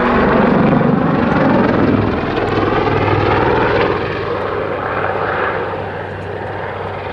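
Westland Lynx helicopter flying a backflip manoeuvre, its rotor and turbine engines running loud, the sound fading over the last couple of seconds.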